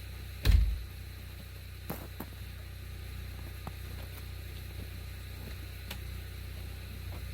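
Vehicle engine running low and steady, with one heavy thump about half a second in and a few light clicks.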